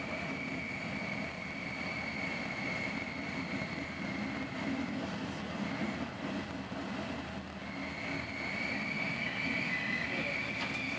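Passenger train running, heard from inside the carriage: a steady rumble under a high, steady squeal from the wheels that fades out about halfway and comes back near the end.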